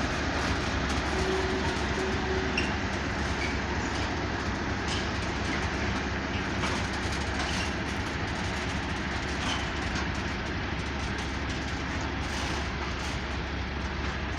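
A train moving on the rails through the station, a steady sound with no clear start or stop.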